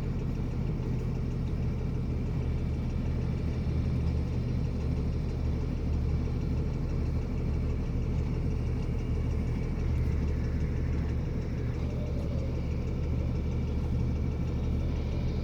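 26-foot box truck running steadily at road speed, a constant low engine drone and road rumble heard from inside the cab.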